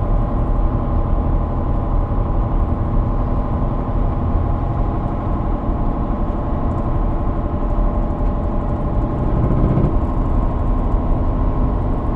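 Steady drone of a Chevy pickup's 5.3 LS V8 and its drivetrain on the move, heard from inside the cab.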